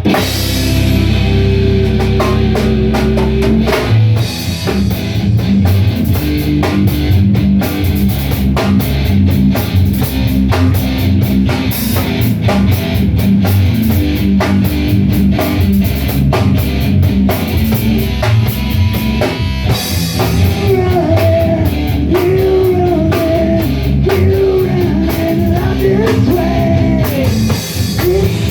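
Rock music played by a band: drum kit and electric guitar with a steady beat, and a voice singing over it from about two-thirds of the way in.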